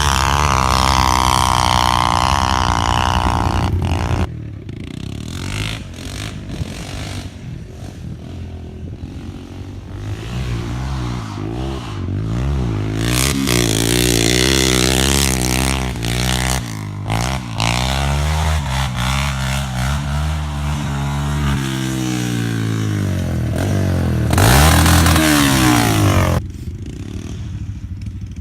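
Dirt bike engine being ridden and revved, its pitch repeatedly rising and falling as it accelerates and backs off. It is very loud for the first few seconds, fades back, then comes loud again near the end with a quick rise and drop in pitch as it passes close.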